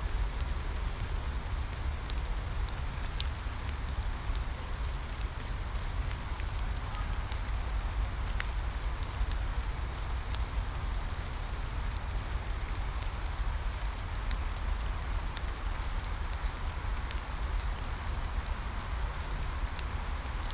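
Steady rain falling, mixed with a crackling bonfire whose sharp pops and snaps come scattered every second or so over a low rumble.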